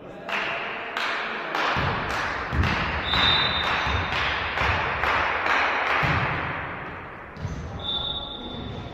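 Indoor volleyball game noise in a sports hall: a run of sharp hits and thuds from the ball and players, with a short steady whistle blast twice, about three seconds in and near the end.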